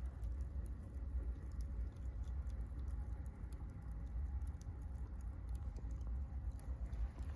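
Campfire with burning charcoal crackling: many small, irregular pops and ticks over a steady low rumble.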